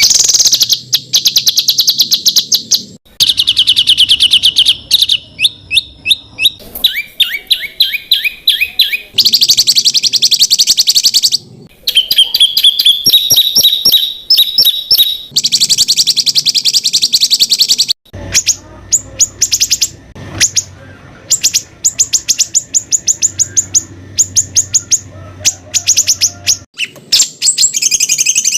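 Songbird 'tembakan' material used as masteran for contest birds: rapid volleys of sharp, repeated high notes, many per second, in spliced phrases. The note pattern changes abruptly every few seconds.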